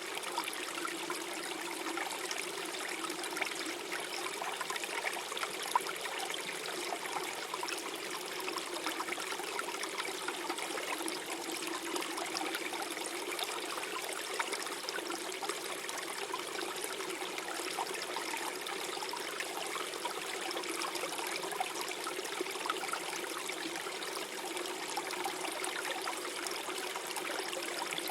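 Small forest stream gurgling and trickling over stones, a steady flow with many small splashes and bubbles.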